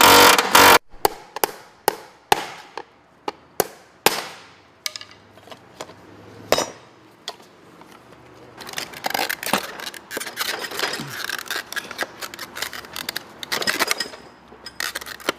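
Hand tools knocking and clanking on metal while a car's gas tank is worked open: about a dozen sharp separate strikes with short ringing tails, then, about halfway through, a busier stretch of rattling and clinking.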